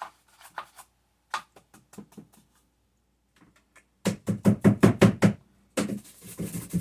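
Oil paintbrush being cleaned by beating it against a container: a few light clicks, then from about four seconds in a rapid run of sharp knocks, about seven a second, and near the end a second run with a swishing hiss.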